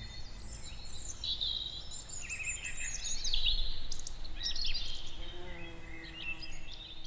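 Several small songbirds singing outdoors, a dense mix of high chirps and quick trills.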